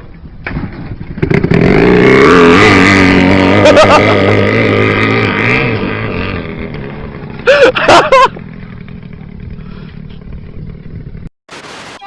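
Motorcycle engine revving hard and accelerating away, loudest for a few seconds and then slowly fading. Brief shouts come near the middle.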